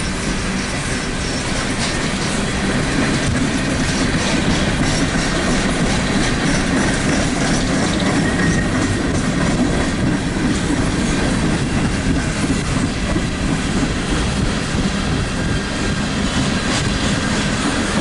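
Empty CSX coal hopper cars rolling past on the rails: a steady loud rumble with wheels clicking over the rail joints.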